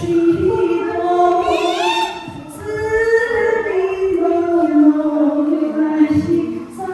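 A woman's voice singing unaccompanied, a slow chant-like melody of long held notes that glide up and down.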